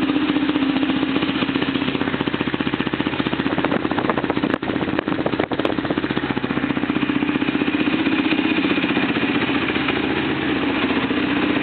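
Suzuki LTR 450 quad's single-cylinder four-stroke engine idling just after a cold start, a steady rapid pulsing note that is loud and open because the exhaust baffle is removed. The level dips sharply for an instant twice, about four and a half and five and a half seconds in.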